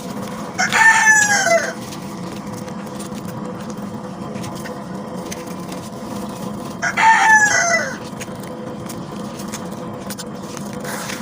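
A rooster crowing twice, each crow about a second long and falling in pitch at the end, over a steady background hiss.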